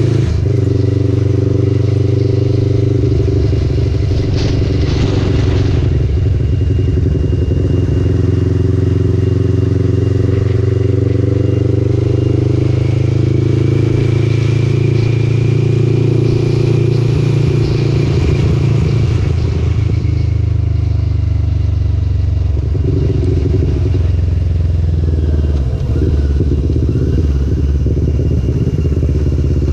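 Motorcycle engine running under way, its note rising and falling a little with speed.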